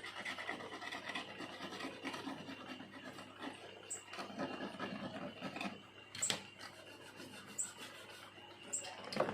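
Small carving blade scraping and gouging bamboo in short, irregular strokes, with a couple of sharp clicks: about six seconds in and near the end.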